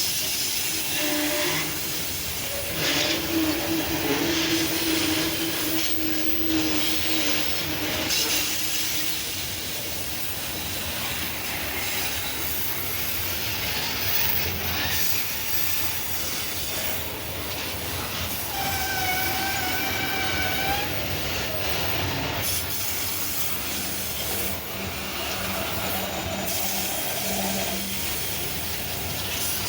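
Loaded freight train rolling past on a downhill mountain grade, steel wheels clacking and squealing against the rails. There are held squeal tones throughout, the highest and shrillest about two-thirds of the way through.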